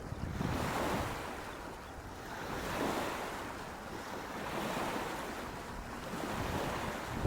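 Steady outdoor rushing noise, wind and water together, that swells and eases about every two seconds.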